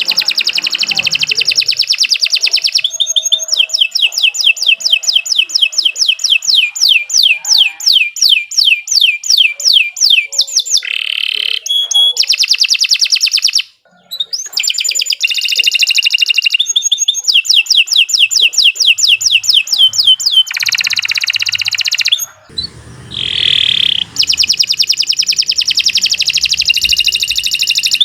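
Domestic canary singing a long, loud song of rolling trills, each made of quick repeated notes, with a short break about halfway through and another about two-thirds through.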